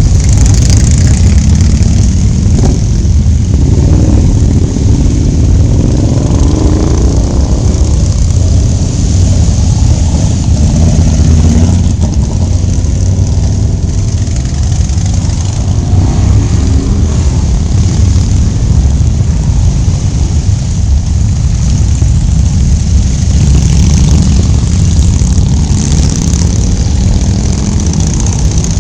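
Motorcycle engines running steadily on the move, with the engine pitch rising and falling several times as the throttle changes.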